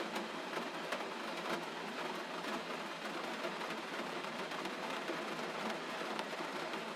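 Gentle rain falling: a steady, even hiss with scattered faint drop ticks.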